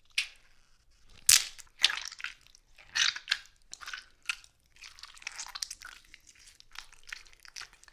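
A tomato being smashed and squished: an irregular run of wet squelches and crunches, the sharpest a little over a second in.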